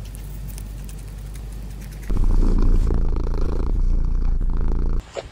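Quiet munching of guinea pigs eating greens, then, about two seconds in, a cat purring loudly and steadily, which stops suddenly near the end.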